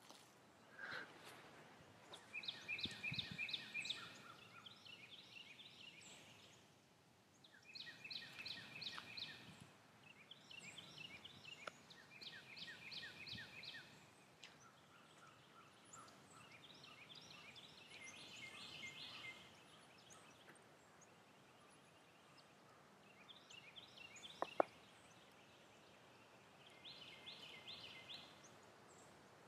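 A songbird singing short, fast trilled phrases, faint, one phrase every few seconds. A single sharp click comes about three-quarters of the way through.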